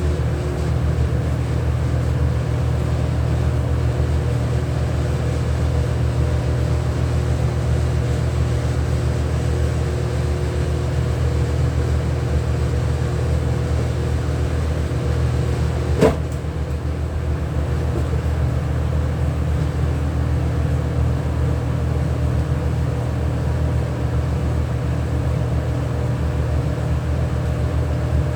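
Steady machine hum with a few steady tones, as of kitchen machinery running, broken once by a single sharp knock about sixteen seconds in.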